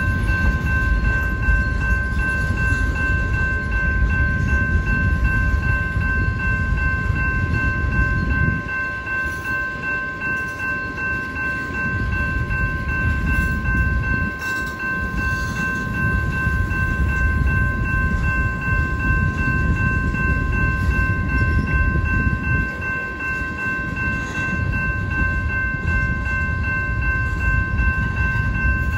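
Freight train of tank cars and covered hoppers rolling by: a continuous rumble of steel wheels on rail that eases briefly a couple of times. Above it, the crossing's warning bell rings on as a steady high tone.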